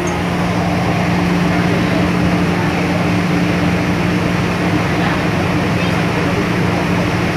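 MTR M-Train electric multiple unit running between stations, heard inside the car: a steady running rumble with a constant hum.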